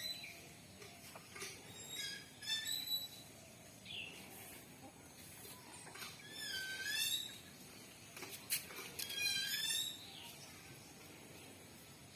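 Chickens calling: bouts of high-pitched, repeated calls about two seconds in, around six to seven seconds, and again around nine to ten seconds.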